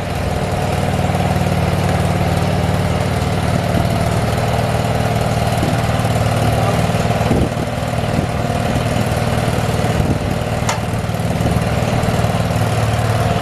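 An engine running steadily at an even speed, with a few light clicks over it.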